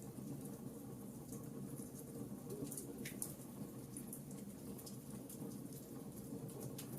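Wood fire burning in a fireplace: light, scattered crackles and small pops over a steady low rumble of the flames.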